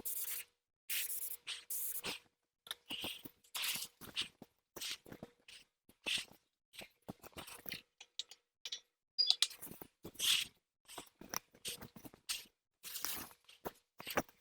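Paint spray gun hissing in many short bursts, one quick pass after another, with brief gaps between them.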